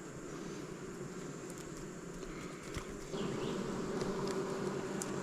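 Honeybees buzzing around an open hive, a steady hum that swells louder about three seconds in, with a few light clicks of frames being handled.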